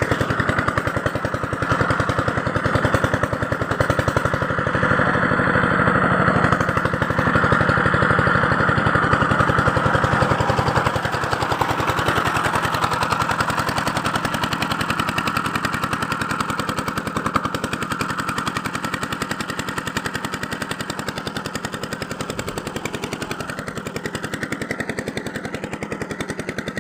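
A small engine or motor running steadily with a rapid, even pulse, easing off slightly in loudness after about ten seconds.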